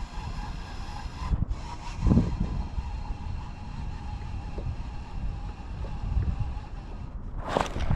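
Wind buffeting the microphone: an uneven low rumble that swells in gusts, with a short, loud burst of noise near the end.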